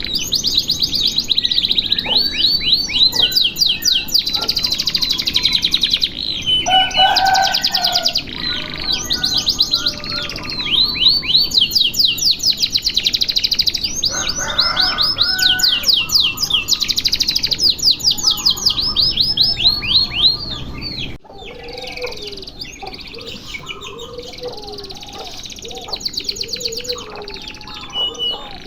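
Domestic canary singing a long, unbroken song of fast repeated high trills and rolls. About 21 seconds in, the song drops suddenly to a quieter passage of lower, sparser notes.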